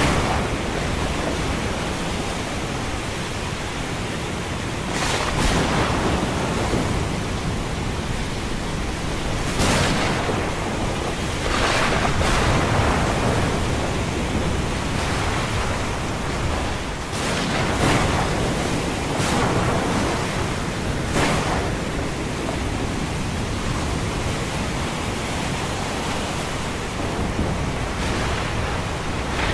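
Ocean surf and thunderstorm: a steady wash of waves and rain, with brief louder surges every few seconds and a low rumble underneath.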